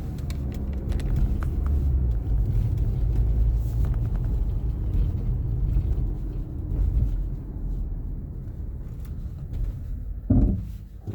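Low road and engine rumble heard inside a 2016 Mazda CX-5 while it is driving, with a few faint clicks. Near the end there is one short, louder sound, and then the rumble dies down.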